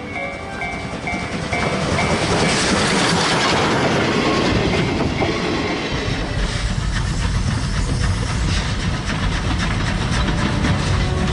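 Steam locomotive C-108 running past under steam, with the clatter of its train on the rails; a deep rumble strengthens about six seconds in. Background music fades out in the first two seconds.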